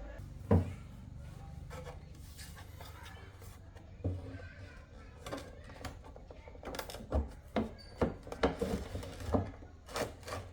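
Irregular knocks and clicks over a low steady hum: a few scattered at first, then a quicker run of them in the second half.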